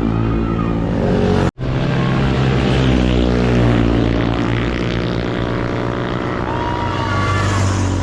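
Motorcycle engine running steadily at cruising speed, with road and wind noise, cut off for a split second about a second and a half in.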